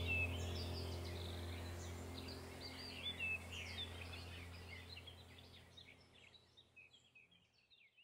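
Small birds chirping in quick short calls over a low steady hum, the whole sound fading out gradually toward the end.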